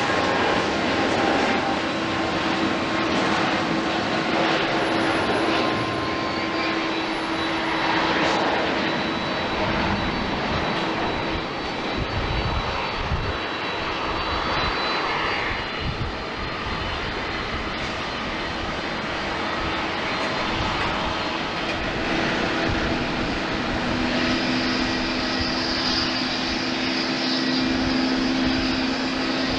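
Jet airliner engines running steadily. About three quarters of the way through, a higher whine and a low hum join in.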